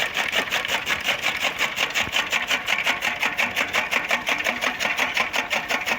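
Tractor-powered two-blade toka (fodder chaff cutter) running, a fast, even mechanical clatter of many beats a second.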